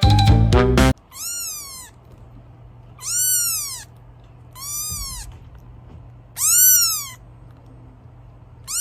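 Domestic cat meowing about five times in a row, each meow rising then falling in pitch and lasting under a second. A snatch of music cuts off about a second in.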